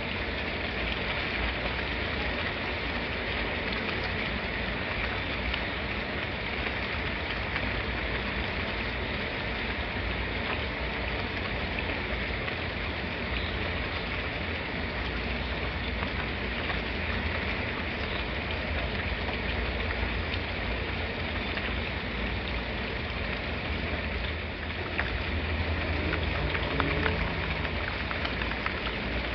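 Steady rain falling on surfaces, a dense even hiss of drops with scattered sharper drop ticks, a little heavier for the last few seconds.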